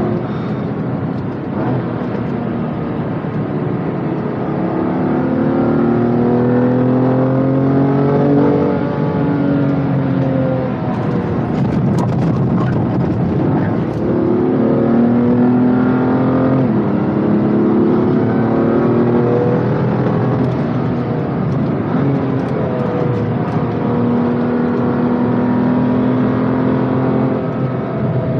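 BMW M2 Competition's twin-turbo straight-six at full load on track: the pitch climbs as it pulls through the revs, several times over, with a quick shift around the middle and the engine pulling again after it.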